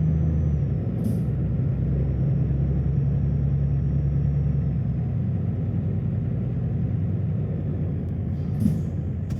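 Volvo truck's diesel engine running steadily, with short hisses of released air about a second in and again near the end.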